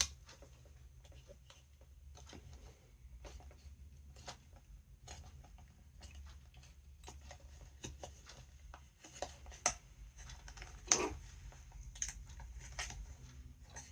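Scattered small clicks, taps and scrapes of hands working and peeling silicone sealant off a circuit board and its plastic housing, with a sharper knock about eleven seconds in. A low steady hum runs underneath.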